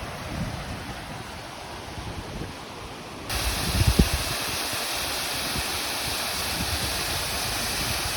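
Waterfall rushing steadily, with wind buffeting the microphone in low thumps. About three seconds in, the rushing becomes abruptly louder and brighter and stays that way.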